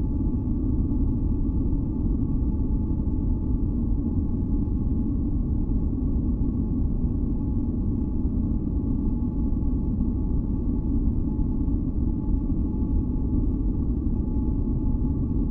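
Steady, deep masking noise, a low rumble that never changes, with two faint steady hums above it.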